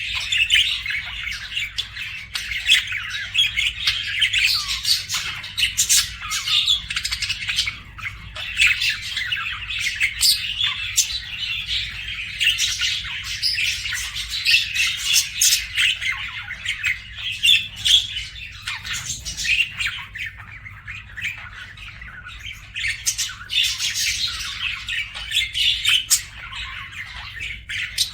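Budgerigars chattering continuously: a dense mix of rapid warbling, chirps and sharp squawks from several birds, with a faint steady low hum underneath.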